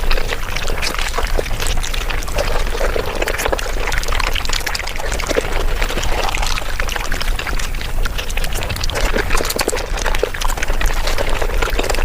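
Close-miked mukbang eating sounds of paneer butter masala, wet chewing, smacking and slurping, played back at five times speed so they run together into a dense, unbroken patter of wet clicks.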